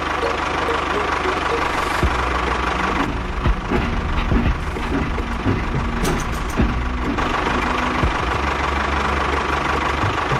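Small engine of a homemade mini tractor running steadily, with a few irregular knocks through the middle.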